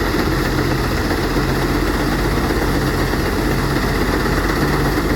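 Engine-driven rice threshing machine running steadily, a continuous engine drone with threshing noise over it.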